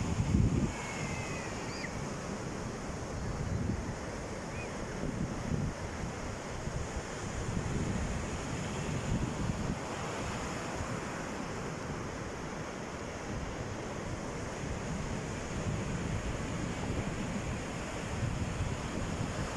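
Sea waves washing onto the shore in a steady hiss, swelling every few seconds, with wind buffeting the microphone in low rumbles, strongest right at the start.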